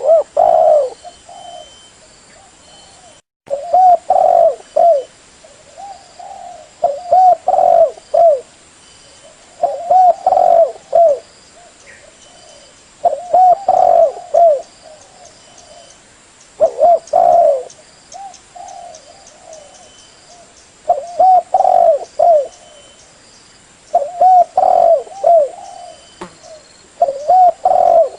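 Spotted dove (terkukur) cooing: a short phrase of low, gliding coos repeated about every three seconds, nine times.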